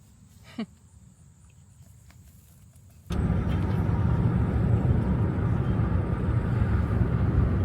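Steady road and engine noise heard from inside a moving car's cabin, strongest in the low rumble, which starts abruptly about three seconds in. Before it, faint outdoor ambience with one brief falling squeak.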